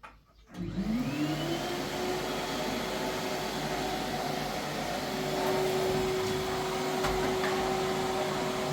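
A small motor starts up about half a second in, its whine rising in pitch within a second and then running steadily over a rushing hiss.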